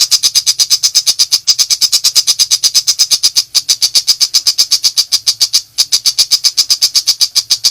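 Tiger shrike (pentet macan) giving its rapid-fire 'nembak' chatter: a fast, even string of sharp, high notes at about ten a second, with two brief breaks, stopping near the end.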